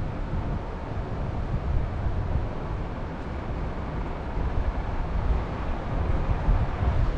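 Wind gusting across the microphone: a fluctuating low rumble over a soft rush of air, growing stronger near the end.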